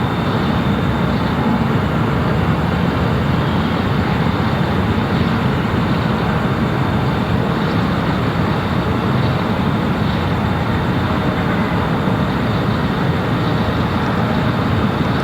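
Jet airliner engines running loud and steady: a low rumble with a thin high whine above it.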